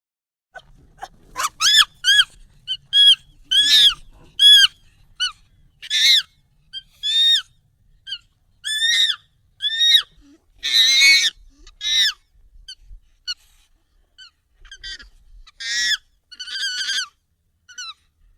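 Monkey calls, sped up and raised in pitch: a run of short, high, arching cries, about one a second, with a longer, harsher cry about eleven seconds in.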